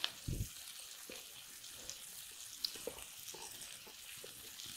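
Onions frying in oil in a pan, a faint steady sizzle, with a few light knocks and a dull thump about a third of a second in.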